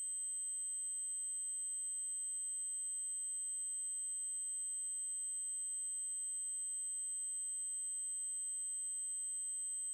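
Electronically generated 8192 Hz triangle-wave test tone: one steady, very high-pitched tone that does not change in pitch or loudness.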